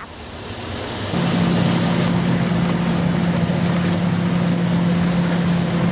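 Engine running steadily: a constant hum comes in about a second in over a rushing noise and holds without change.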